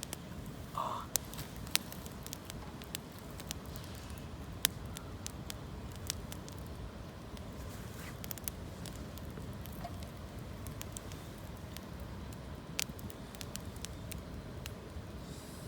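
Campfire of gathered branches and fallen leaves burning, crackling with irregular sharp pops and snaps over a low steady rumble; the loudest pops come about two seconds in, near five seconds, and near thirteen seconds.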